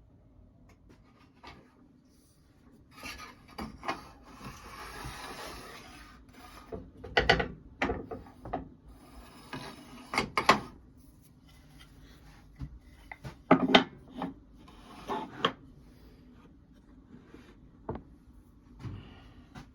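Wooden pieces being handled by hand: a stretch of rubbing and scraping of wood on wood, then a string of irregular sharp knocks as the pieces are set down and knocked together.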